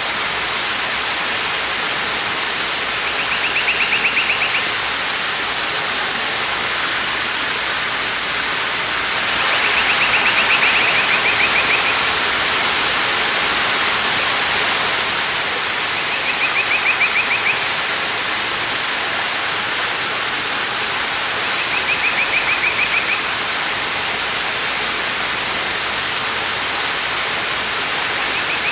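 Waterfall rushing steadily. A rapid high trill sounds briefly about every six seconds, five times in all.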